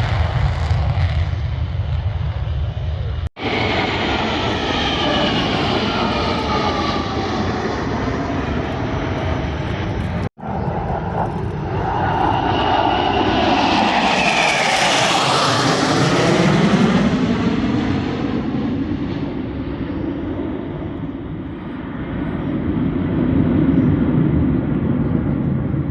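Aircraft flying past at an air show. The engine noise swells to a peak about halfway through, its pitch sweeping down as the aircraft passes, then fades. The sound cuts off abruptly twice early on where shots are spliced together.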